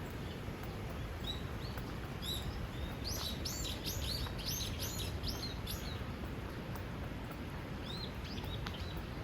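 A small songbird singing: a quick run of short, high, arched chirps about three seconds in, densest for a few seconds, with a few more near the end, over a steady low rumble.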